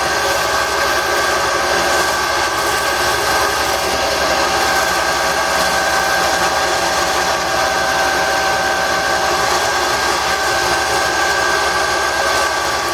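Wood lathe running steadily, its motor whining with several constant tones, while sandpaper is held against the spinning wooden tool handle to smooth it.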